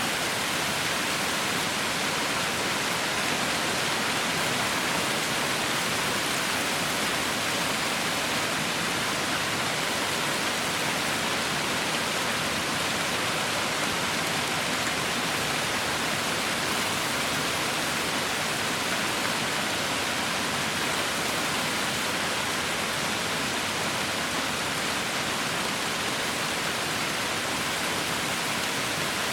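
Heavy rain falling steadily, an even continuous hiss with no distinct drops or thunder.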